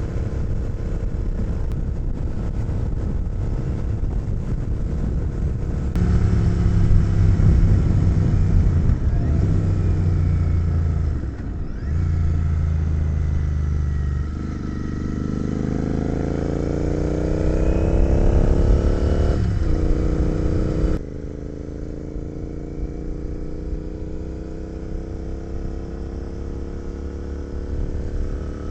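Royal Enfield motorcycle engine running at road speed, with wind rush. Near the middle it accelerates, the engine note rising steadily, then breaks off as if for a gear change.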